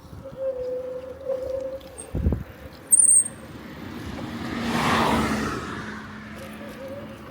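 A car passing by, its noise swelling to a peak about five seconds in and then fading. Before it, a short low thump and a brief, sharp high-pitched squeak about three seconds in, the loudest moment.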